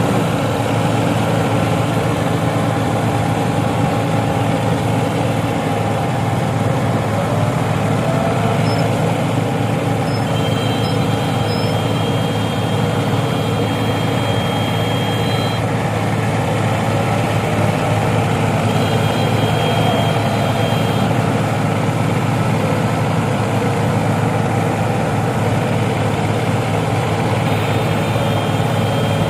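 Ford tractor's three-cylinder diesel engine running steadily at a constant speed, with no change in pitch.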